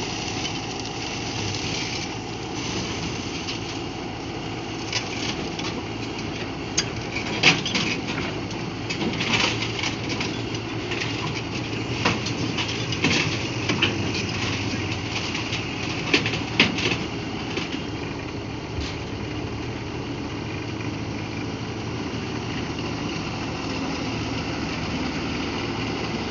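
Construction-site noise: a machine running steadily, with a spell of sharp knocks and clatter through the middle.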